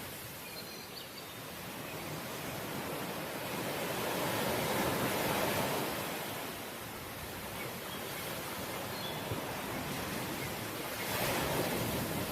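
Sea waves breaking and washing onto the shore: a steady rush that swells twice, once around the middle and again near the end.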